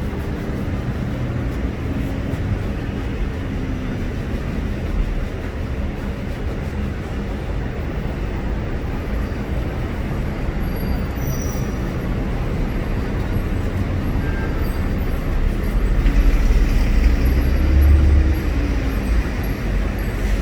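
Busy street ambience: a steady low rumble of traffic that swells about three-quarters of the way through as a heavy vehicle passes close by.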